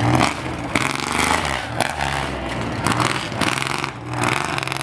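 Tuff truck's engine revving hard and easing off over and over as it runs the race course, its pitch repeatedly climbing and dropping.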